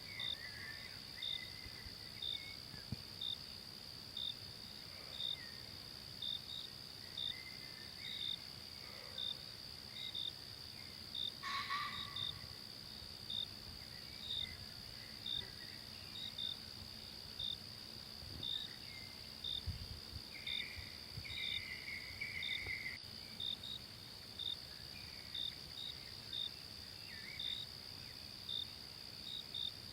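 Forest ambience dominated by insects: a steady high-pitched drone with a regular chirp about once a second, typical of crickets. Scattered short faint calls sound over it, and there is one brief sharper sound about twelve seconds in.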